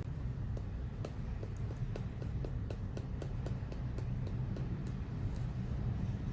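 Light ticking, about three ticks a second and slightly uneven, over a low steady hum.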